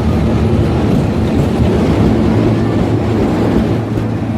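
Steam train pulling out: a loud, steady noise with a low hum.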